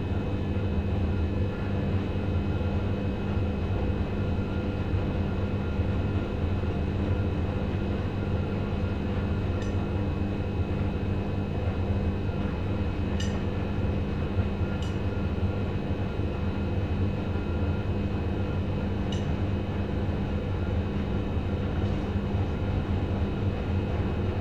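Two Schulthess washing machines, a Spirit topLine 8120 and an eMotion 7040i, running together: a steady motor-and-drum hum with a few sharp clicks scattered through it.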